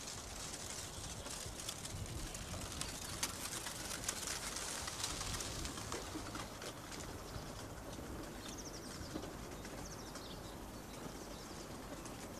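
Outdoor birdsong: birds chirping and calling faintly over a quiet background, with a short, quick high trill about eight and a half seconds in.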